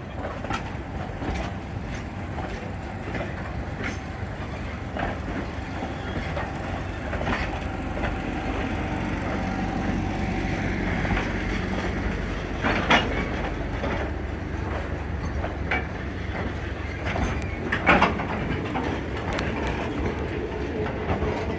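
Narrow-gauge train rolling slowly with a steady rumble and its wheels clicking over rail joints. Two louder metallic clanks come about two thirds of the way through and again near the end.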